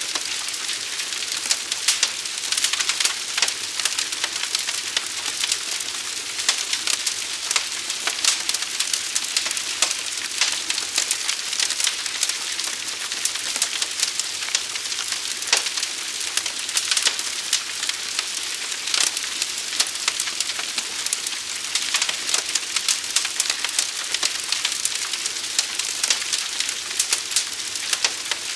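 Fire crackling steadily: a dense hiss packed with small pops and snaps.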